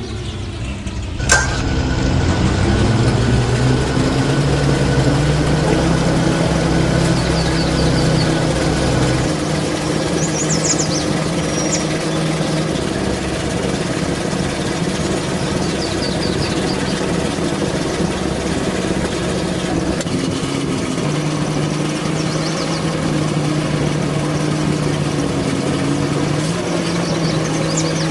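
Truck engine running steadily, with a sharp click about a second in. Faint high chirps come and go over the engine.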